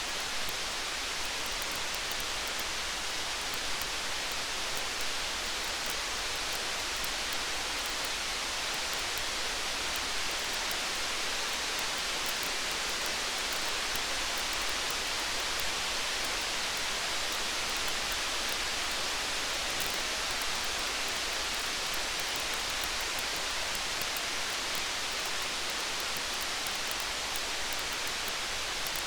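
Steady rain, an even hiss that neither swells nor fades, with many fine high ticks scattered through it.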